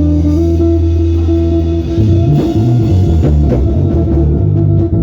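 Live band music with electric guitar, bass guitar and drum kit, sustained bass notes under a held guitar line.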